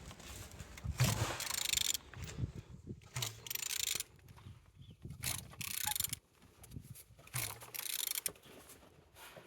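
A removed car engine, code 1L25, being turned over by hand with a tool, in repeated strokes of mechanical clicking and rubbing about every second or two. The engine turns over freely, a sign that it is not seized.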